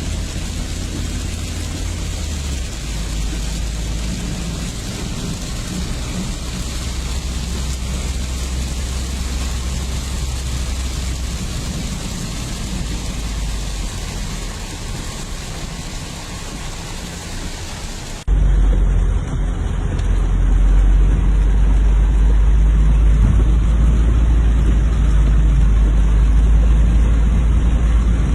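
Steady rushing noise of a torrential downpour, with a deep low rumble underneath. About two-thirds of the way through it cuts to a louder recording with a heavier rumble.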